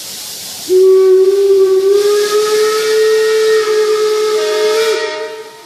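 Steam locomotive whistle blowing one long blast of about four seconds, starting suddenly under a second in and cutting away near the end, with a second, higher tone joining shortly before it stops. A steady hiss of escaping steam runs underneath.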